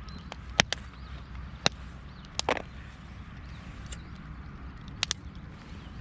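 A few sharp clicks and knocks, two of them in quick succession about half a second in and another quick pair near the end, over a low steady rumble.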